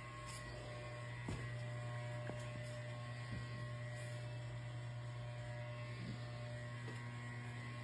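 Steady low electrical hum with a faint higher whine, and a few faint soft clicks.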